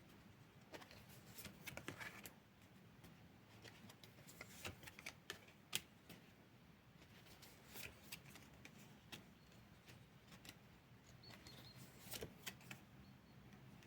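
Tarot cards being shuffled and handled: faint rustles and flicks of cards in several short bursts.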